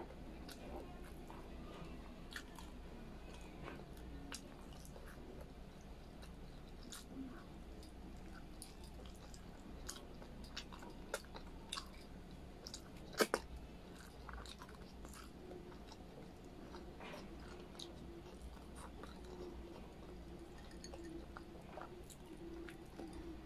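Close-mic chewing and mouth clicks of someone eating braised pork humba by hand, faint, with many small scattered clicks and one sharper click about 13 seconds in.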